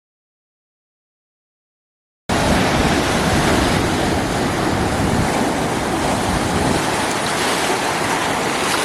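About two seconds of silence, then steady ocean surf with wind buffeting the microphone.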